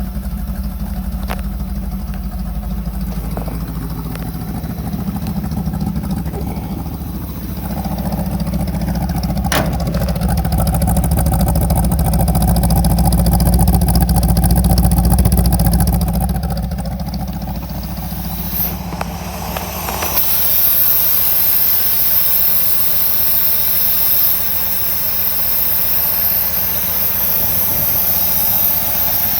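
1968 Chevrolet C10's 283 small-block V8 running shortly after a cold start, a steady low idle that grows louder for several seconds partway through. About two-thirds of the way in, the low rumble drops away and a steady hiss takes over.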